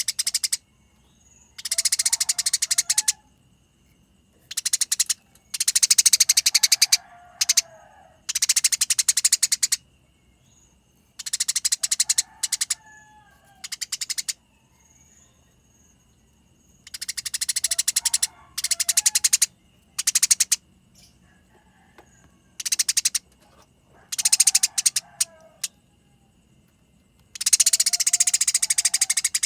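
Eurasian tree sparrows fighting: harsh, very rapid rattling chatter in repeated bursts of half a second to a second and a half, with short pauses between.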